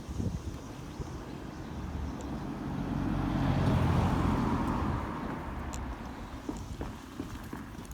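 A car passing by: the tyre and engine noise swells, is loudest about four seconds in, then fades away.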